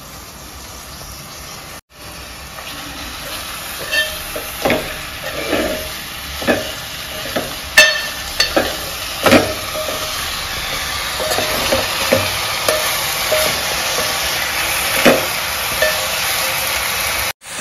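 Gongura (sorrel) leaves sizzling in oil in a metal pot, cooked without water. A metal spoon stirs them, clinking and scraping against the pot again and again. The sizzle gets a little louder after about two seconds.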